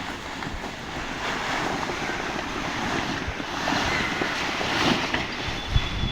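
Wind blowing as a steady rushing noise, buffeting the microphone in low gusts near the end.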